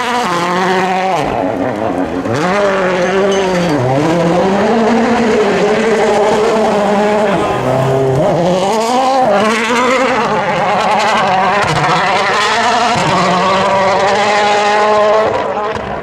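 A World Rally Car's engine at racing speed, its revs climbing and dropping over and over in quick swings.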